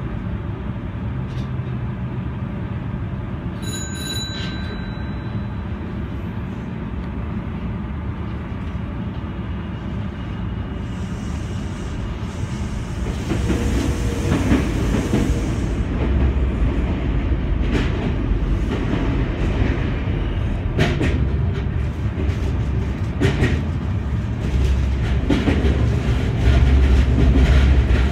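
Senboku Rapid Railway 7020 series electric train running, heard from the driver's cab: a steady rolling rumble that grows louder after about 13 seconds, with rail-joint clicks in the second half. About midway a train passes on the adjacent track with a brief rush of noise.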